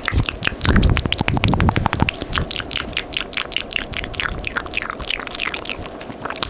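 Close-miked ASMR mouth sounds: a fast, continuous run of wet tongue and lip clicks, several a second, with a few low thumps in the first two seconds.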